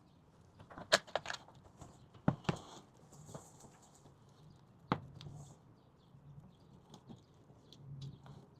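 A few scattered light taps and knocks from hand work on a fiberglass resin repair, the loudest about a second in and just after two seconds in, over a faint steady hum.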